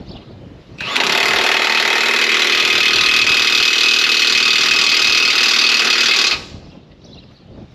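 Impact wrench run continuously for about five and a half seconds, tightening a loader mounting bolt; it starts and stops abruptly.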